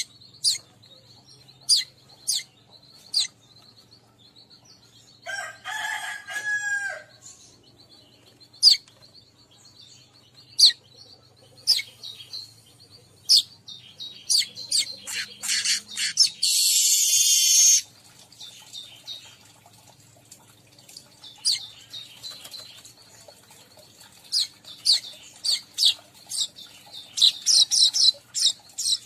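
Weaver birds calling: a run of short, sharp chirps and chatter, with a longer pitched call about six seconds in and a loud, harsh buzzing note of about a second and a half around the middle.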